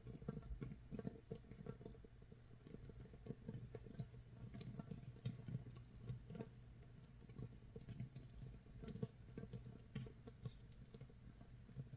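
Makgeolli starter mash (mitsul) actively fermenting in a crock, 24 hours in: a faint, irregular crackle of many tiny pops as carbon dioxide bubbles burst at the surface, sounding like light rain or a small wood fire.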